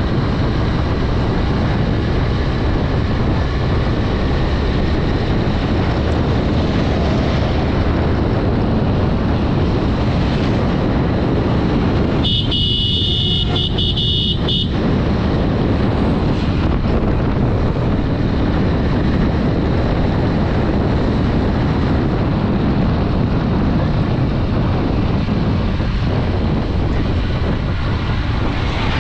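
Steady riding noise of a Honda Dream 110's small single-cylinder four-stroke engine, with wind and road noise, as the motorcycle travels along. About halfway through, a horn sounds once for about two and a half seconds.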